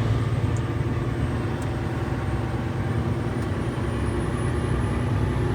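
Renault T-range semi truck on the move, its engine and tyre noise heard from inside the cab as a steady low rumble.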